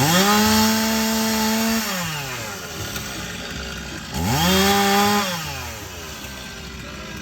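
Briggs & Stratton engine of a Rippa Mule Trac mini excavator being cranked twice. Each time it spins up to a steady whine, holds, then winds down without catching; the first try lasts about two seconds and the second, shorter one comes about four seconds in. The engine will not start, and the owner believes air is still reaching the carburetor from the tank.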